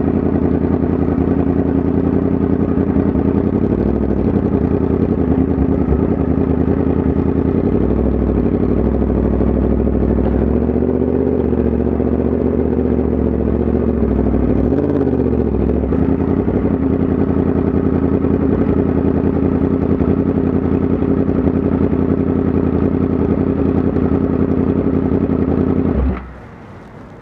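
Yamaha MT-10 SP's crossplane inline-four engine running steadily, its pitch dipping and rising briefly between about ten and fifteen seconds in. The engine sound stops abruptly near the end.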